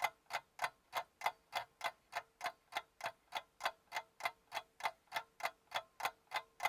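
Steady clock-like ticking, about three ticks a second, over a faint steady tone.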